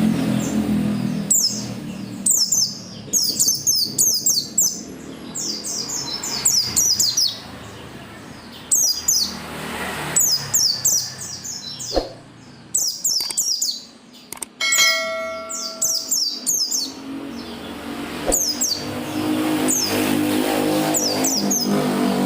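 Pleci (white-eye) singing in repeated bursts of fast, high twittering notes. A low rumble sits under the song at the start and end, and a brief steady tone sounds about two-thirds of the way in.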